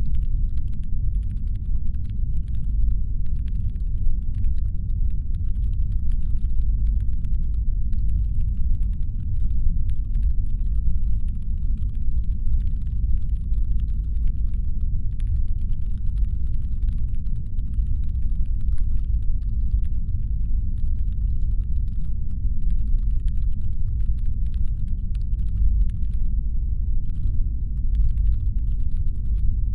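Deep, steady brown-noise rumble standing in for a spaceship's engine hum, with faint, irregular ticking scattered over it.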